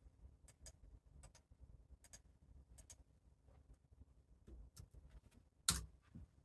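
Faint, sparse clicks, often in pairs, at an uneven pace, with one louder click near the end, over quiet room tone.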